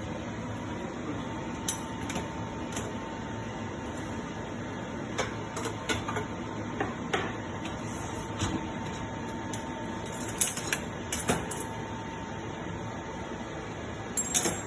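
Dishes and cutlery clinking and knocking now and then as a dishwasher is unloaded, in small clusters of sharp clinks over a steady background hum.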